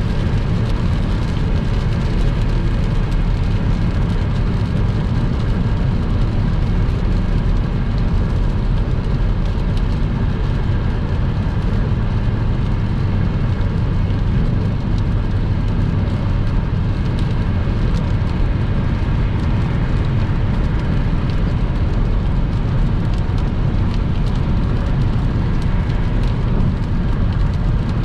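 Car driving at motorway speed in heavy rain: steady, loud road and engine noise with rain on the car.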